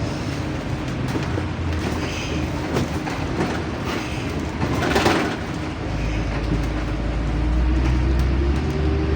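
Inside a LiAZ-5292 city bus on the move: the engine runs under a steady cabin rattle, with a short noisy burst about five seconds in. The engine then pulls harder, its tone slowly rising near the end.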